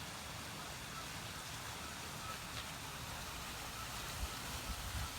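A van running, heard from inside the cab: a steady hiss with a low engine rumble underneath.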